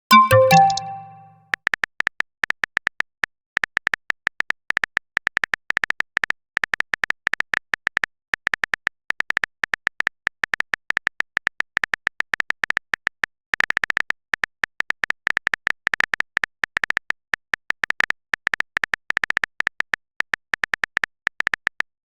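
A short electronic message-notification chime, followed by rapid, irregular phone-keyboard typing clicks that run on and stop just before the end.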